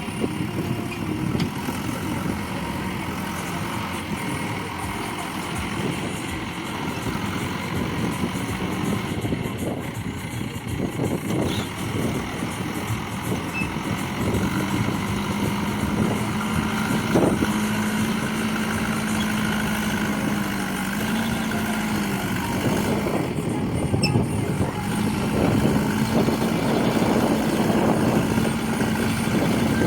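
Heavy diesel machinery running under load, a continuous engine drone. A steady engine note strengthens about halfway through.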